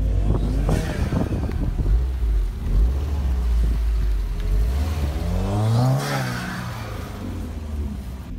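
2016 Subaru WRX's turbocharged flat-four accelerating and driving past close by. Its engine note rises to a peak about six seconds in, then falls away as it goes past.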